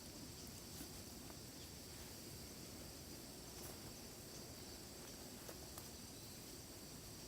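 Faint steady outdoor ambience with a high, even insect drone, like a distant cricket or cicada chorus, over low background noise, with a few faint ticks.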